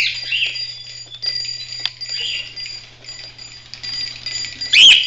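Pet cockatiels and a lovebird chirping in short calls, the loudest and longest call near the end, with a few light clicks in between.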